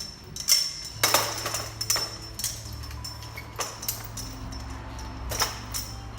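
A handful of sharp taps and clicks of tools, about five spread over several seconds, over a steady low hum that starts about a second in.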